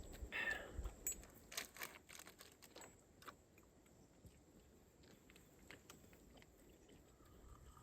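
Faint crunching and clicking, as of a dog chewing its breakfast, over the first three seconds, then near quiet.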